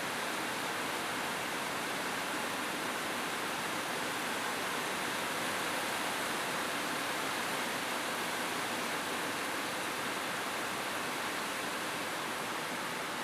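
Steady rain falling on a roof, an even hiss without distinct drops or thunder.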